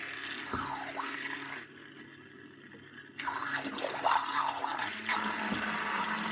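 Electric mixer whisking raw eggs with a little water, a motor hum under liquid churning and splashing. It eases off for about a second and a half, then mixes hard again.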